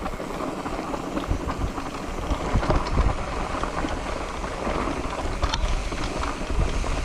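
Wind buffeting the microphone while riding, a steady rushing noise with an uneven low rumble.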